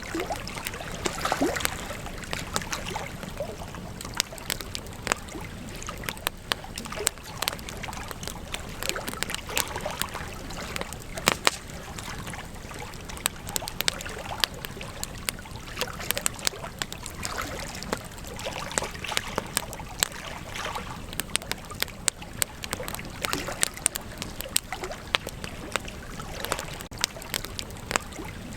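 Wood campfire crackling and popping: a steady hiss of burning with frequent sharp, irregular snaps, a few louder pops among them.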